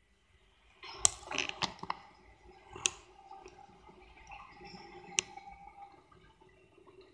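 Faint steady hum of a passing London Overground electric train, overlaid by a handful of sharp clicks and knocks, the loudest about a second in.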